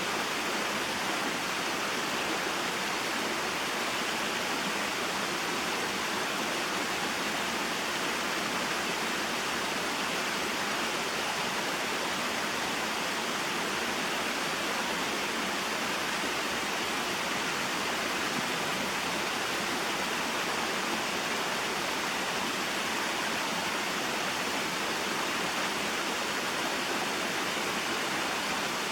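Small mountain waterfall and stream flowing: a steady, even rush of falling and running water.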